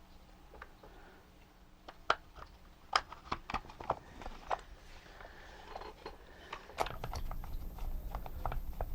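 Scattered small clicks and taps of parts being handled and adjusted by hand, with a low rumble starting about seven seconds in.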